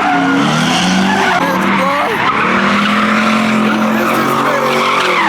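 A car doing a burnout: its engine is held at high revs, wavering up and down and then holding steady for a couple of seconds, over the steady hiss and squeal of spinning tyres.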